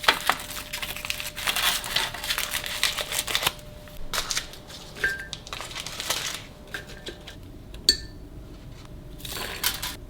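Crinkling and rustling of packaging or a plastic bag being handled, thinning out about halfway into scattered light clicks and a couple of short clinks, like a dish or glass being set down.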